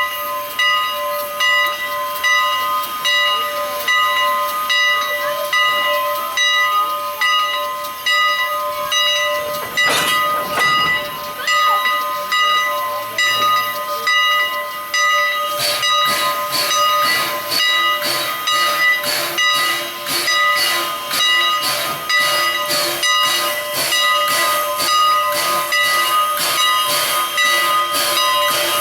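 Steam locomotive Engine 89 hissing steam, a steady hiss with several held tones. From about halfway through, a fast regular pulsing joins in.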